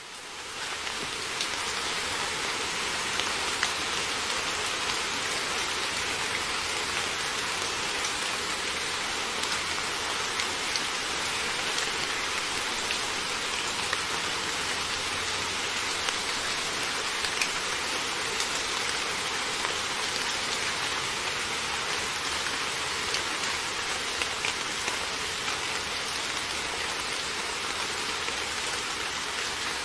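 Heavy rain falling steadily: a dense, even hiss with scattered sharper drop hits. It fades in over the first second.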